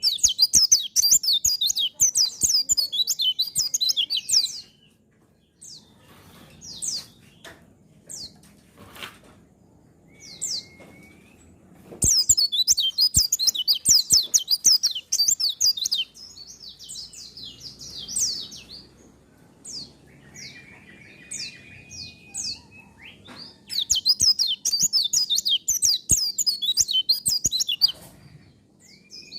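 A white-eye (pleci) singing. It gives three long bursts of rapid, high twittering song, at the start, about twelve seconds in and about twenty-four seconds in, with single short high calls between them and scattered sharp clicks.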